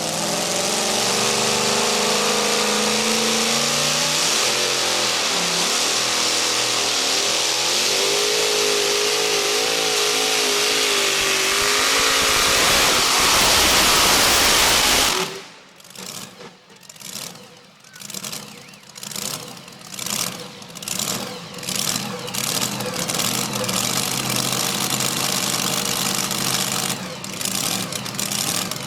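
A modified two-wheel-drive pulling truck's engine running flat out under load as it drags the sled, its pitch wavering. About fifteen seconds in the full-throttle sound cuts off abruptly, and a lower engine sound then rises and falls in repeated surges before settling into a steadier run.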